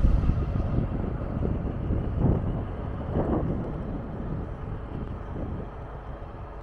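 A train moving through the station: a low rumble, loudest at the start, that slowly fades as the train draws away.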